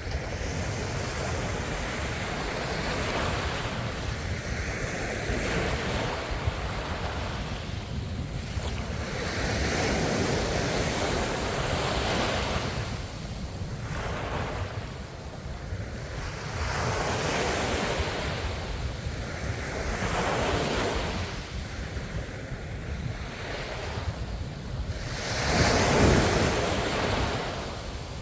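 Ocean waves breaking on the shore, the surf swelling and falling back every few seconds, with the largest wave near the end.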